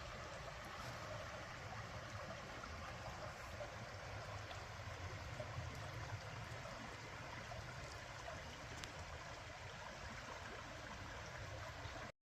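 Steady rush of a stream's running water, cutting off abruptly near the end.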